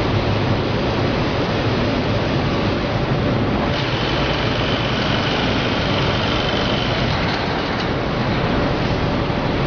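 Perlite expansion plant machinery running: a loud, steady, dense industrial noise. A faint high squeal sits on top from about four seconds in until about eight seconds.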